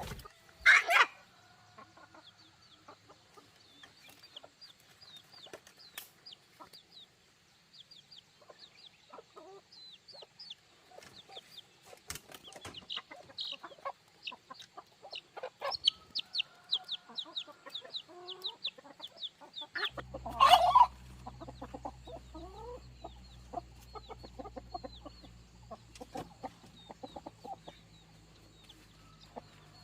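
Chickens clucking, with many short high calls throughout and two louder calls, one about a second in and one about two-thirds of the way through. A low steady hum joins from about two-thirds in.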